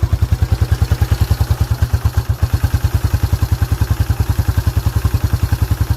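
1987 Yamaha Moto-4 YFM350ER's air-cooled single-cylinder four-stroke engine idling steadily, its exhaust pulsing about ten times a second. It runs smoothly, with no knocking or tapping.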